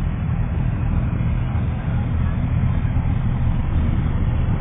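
Motor vehicle on the move: a steady low engine rumble with road and wind noise, unchanging throughout.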